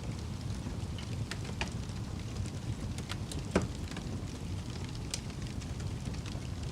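Wood fire burning in a fireplace: a steady low rumble of flames with scattered crackles, and one louder pop about halfway through.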